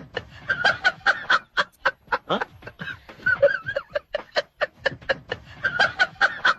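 Rapid staccato comic laughter on a repeating loop, a string of short 'ha' pulses about five a second with a wavering cackle running through it.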